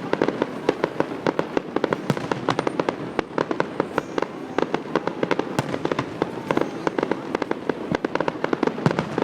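Fireworks display: a rapid, continuous barrage of sharp bangs and pops, many each second.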